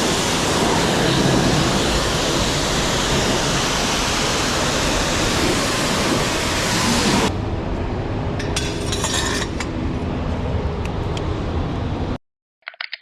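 Steady, loud hiss of a high-pressure water spray washing a semi truck. About seven seconds in it cuts abruptly to a quieter rumbling hiss with scattered clinks, which stops suddenly near the end.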